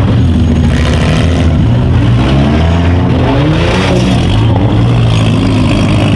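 Several small-car demolition derby engines revving up and down at once, loud and continuous, their pitches rising and falling over one another.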